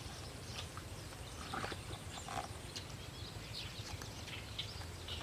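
Outdoor ambience with scattered short, high bird chirps over a low steady rumble.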